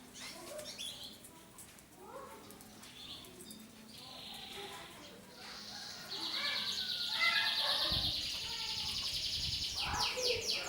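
Caged canaries singing: scattered chirps at first, then about six seconds in a loud, fast, rolling trill sets in and carries on, with other chirps over it.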